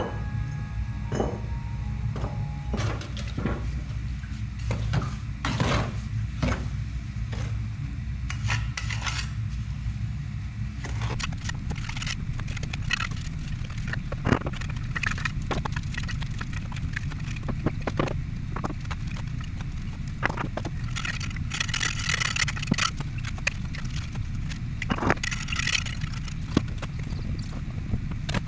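Bricklaying work: irregular knocks and clicks of bricks and tools, with a few longer scrapes like a trowel working mortar, over a steady low rumble.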